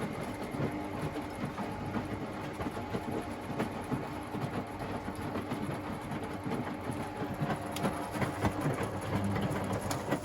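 Washing machine running: a steady motor hum under irregular rattling and churning from the turning drum, a little louder near the end.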